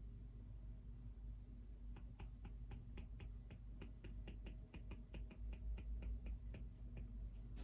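Computer keyboard typing: a run of light key clicks, several a second, starting about two seconds in and stopping near the end, over a low steady hum.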